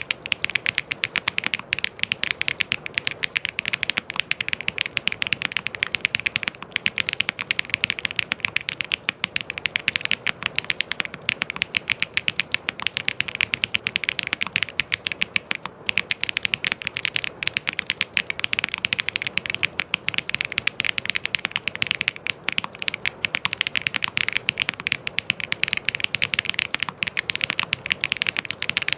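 Fast, continuous typing on a mechanical keyboard: a dense stream of keystroke clicks with only brief pauses.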